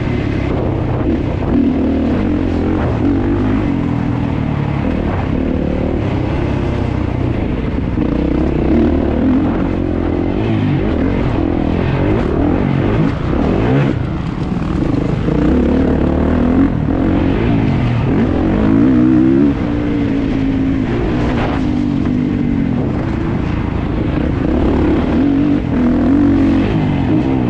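Kawasaki KX450 single-cylinder four-stroke motocross engine heard close up, revving hard and backing off over and over as the bike is raced around the track, its pitch climbing and dropping every second or two.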